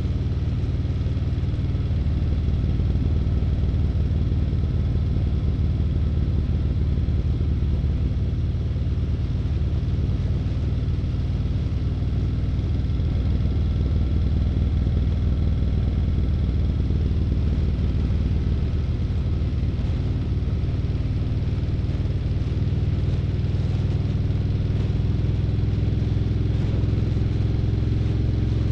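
Harley-Davidson CVO Street Glide's V-twin engine running steadily as the motorcycle rides along, its pitch rising over the last few seconds.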